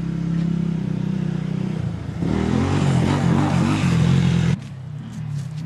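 1996 Dodge Ram 1500 pickup's engine running at idle with a steady hum. About two seconds in the sound turns louder and rougher with a wavering pitch, then drops off suddenly near the end.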